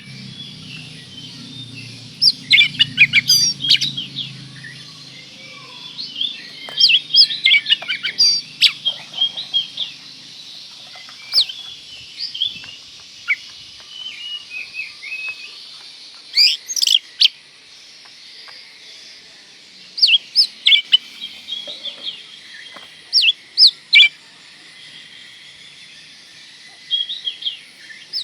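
Oriental magpie-robin (kacer) singing: loud bursts of rapid, sharp whistled and chirping notes, in phrases a second or two long separated by pauses of a few seconds. A low hum runs under the song for about the first ten seconds.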